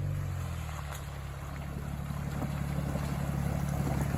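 Vehicle engine running low and steady as the car is driven slowly to level it on sloping ground.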